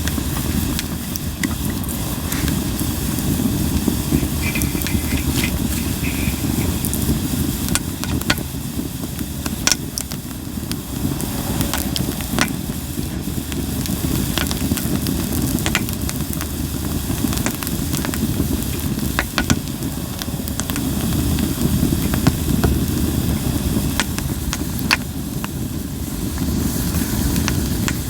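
Linden-wood campfire burning: a steady low rush of flames with scattered sharp crackles and pops, a few louder snaps among them.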